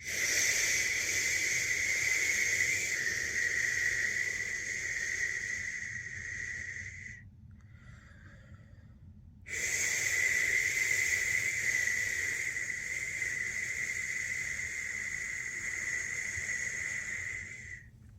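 A person making long 'shhh' shushing sounds to soothe a newborn to sleep: two long shushes of about seven and eight seconds, with a short quiet pause between them.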